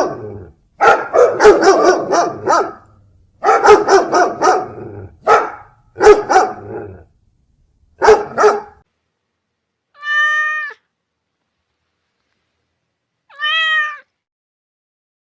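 A dog barking in several quick bouts of rough barks and growls, then a cat meowing twice, each meow a clear, drawn-out call of under a second with a few seconds' gap between.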